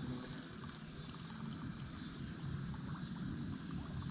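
Insects, crickets or similar, chirring steadily at a high pitch, over a low background rumble.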